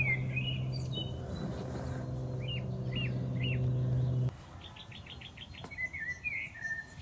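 Small birds calling: three short downward chirps, then a quick trill and a warbling call. Under them runs a steady low hum that cuts off suddenly about four seconds in.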